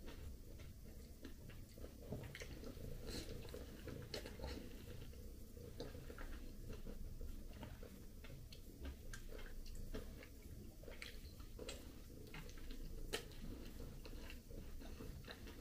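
Faint chewing and biting of a ripe persimmon eaten from the hand, with many small mouth clicks.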